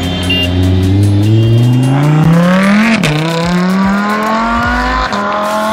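Lamborghini Huracán V10 engine accelerating hard: its pitch climbs steadily, drops sharply at an upshift about three seconds in, then climbs again as the car pulls away.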